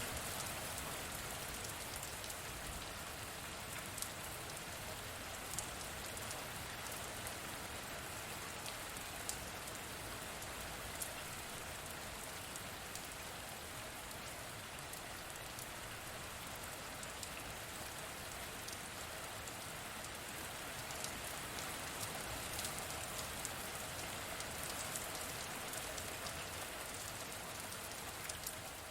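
Steady rain with a constant hiss, and now and then a single drop ticks out more sharply.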